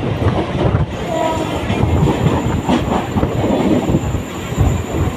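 A train running past on the rails, its wheels rumbling and clattering over the track, with a thin high squeal held steady from about a second in.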